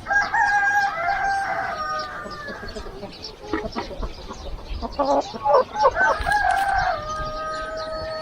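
A rooster crowing twice: one crow at the start and a second from about six seconds in that ends on a long held note, with short chicken clucks in between.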